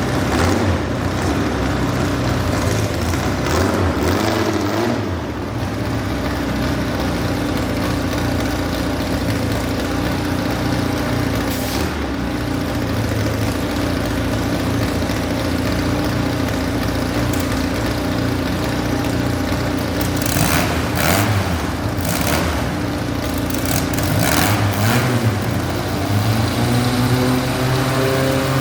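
Modified garden tractor pulling engine running steadily, then revving up with rising pitch near the end.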